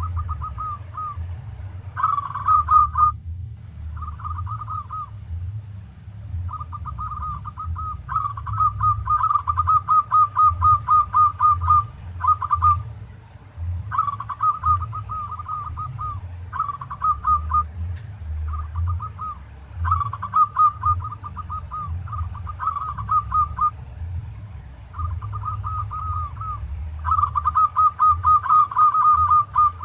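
Zebra dove (perkutut) cooing in repeated trilled phrases, each a fast run of pulsed notes with short pauses between, over a steady low hum.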